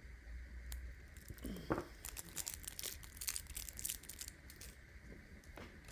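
Crinkling, crackling handling sounds of purple polymer clay being pulled apart and worked by hand, with a flurry of small clicks in the middle.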